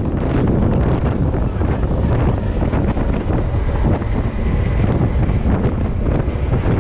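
Steady, heavy wind noise buffeting the microphone while riding a motorcycle, with the bike's engine and road noise underneath.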